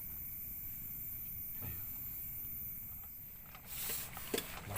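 Steady high-pitched chorus of crickets over a low rumble; near the end the chorus stops and a run of close rustling and knocks begins.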